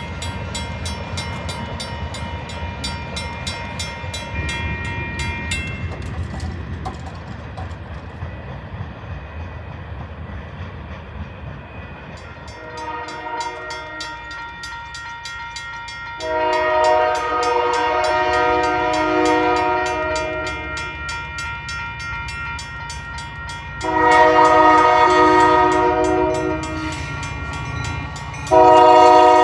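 Diesel locomotive's air horn sounding a chord of several notes in repeated long blasts, each louder than the last, over the low rumble of the train on the rails. The first twelve seconds are only the rumble. The loudest blast begins near the end.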